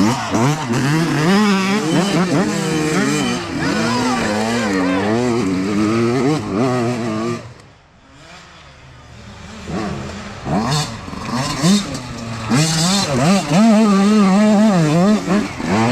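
Youth dirt bike engines revving up and down as riders work the throttle over rough ground. The engine sound fades away about halfway through, then another bike comes up loud.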